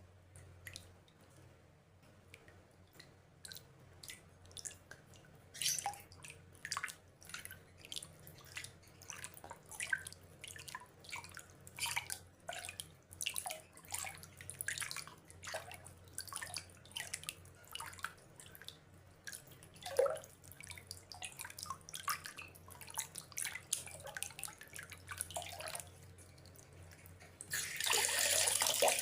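Water drops dripping into water: irregular, separate plops, a few a second, over a faint low hum. Near the end a steady rush of water comes in, much louder.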